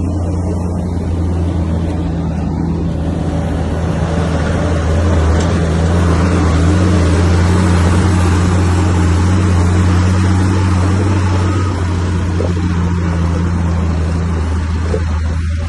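Bulldozer's diesel engine running, a steady low drone that grows a little louder around the middle and eases off near the end.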